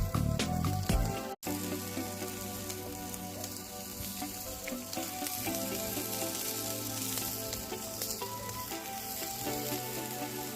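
Music with a heavy beat that cuts off about a second and a half in, then chicken skewers sizzling and crackling over a campfire as a steady hiss, with soft sustained music tones underneath.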